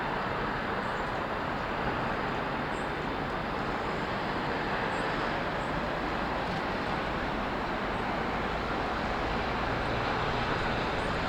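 Steady hiss of road traffic from a nearby street, with faint, high, short chirps of small birds here and there.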